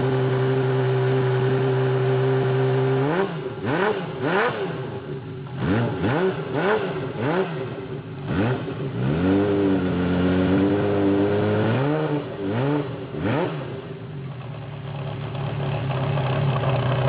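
Honda CBX's air-cooled inline-six engine idling steadily, then revved in a string of quick throttle blips, each a sharp rise and fall in pitch, from about three seconds in, before settling back to idle near the end.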